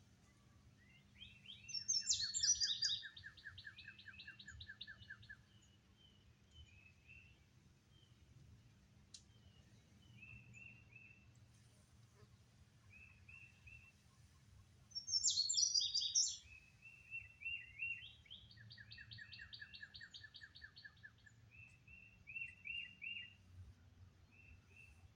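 Songbirds singing outdoors. One bird sings twice, about two seconds in and again about fifteen seconds in: each song is a quick run of sharp notes followed by a fast trill. Other birds give short chirps throughout.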